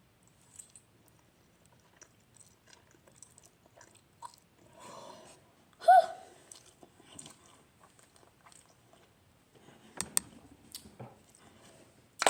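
A person chewing and slurping spicy instant noodles in quiet, scattered mouth noises. A short hum comes about six seconds in, and a couple of sharp clicks around ten seconds in.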